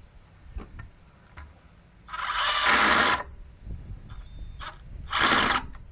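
Power drill run in two bursts into wooden boards, the first about a second long, the second shorter near the end, with a few faint clicks before them.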